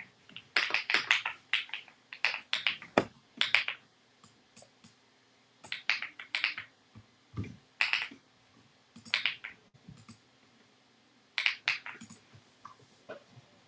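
Rainy 75 mechanical keyboard being typed on in short bursts of quick keystrokes with pauses between them, plus a couple of duller low thumps.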